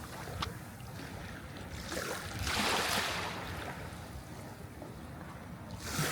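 Sea waves breaking and washing in. One surge of surf builds about two seconds in and fades, and another rises near the end.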